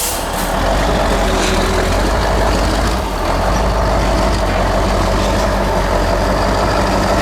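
Heavy off-road trial truck's diesel engine running steadily.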